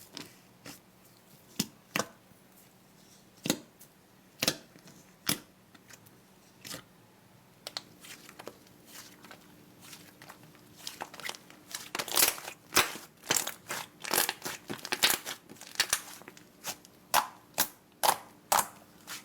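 Slime being handled and pressed by hand, giving sharp crackles and pops: a few scattered ones at first, growing denser and louder from about halfway through.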